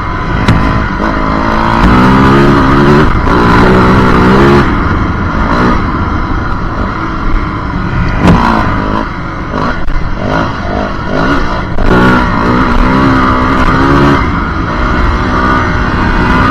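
Yamaha WR450F's single-cylinder four-stroke engine, ridden hard and revving up and down repeatedly as the throttle opens and closes through the gears. A sharp crack sounds about eight seconds in.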